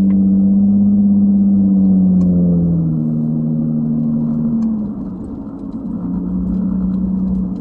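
2011 Nissan Maxima SV's 3.5 L V6 through a custom exhaust with the mufflers and resonators cut out, giving a loud, steady droning note while cruising. The pitch shifts about three seconds in, the sound dips briefly about five seconds in, and then it settles back to a steady drone.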